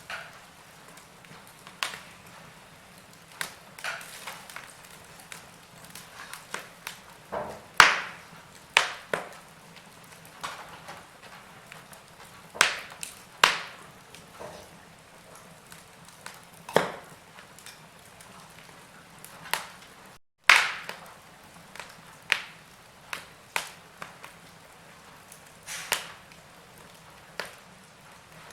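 Wood fire in a fireplace crackling: irregular sharp pops and snaps, a few of them loud, over a faint steady hiss. The sound drops out for a split second about twenty seconds in.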